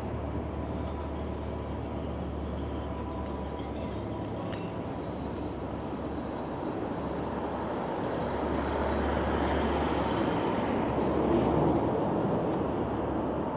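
City street traffic: vehicles running and passing with a low engine hum, swelling louder about eight seconds in as a vehicle passes close.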